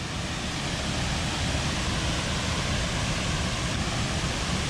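Haew Suwat Waterfall's water falling onto rocks, a steady, even rush of noise.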